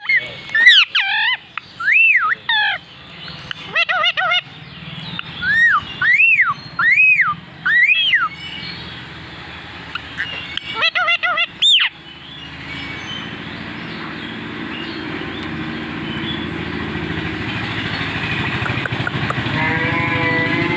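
Indian ringneck parakeet giving a series of loud, arching whistled calls, rising and falling in pitch, for about the first twelve seconds. After that, a steady background noise slowly grows louder.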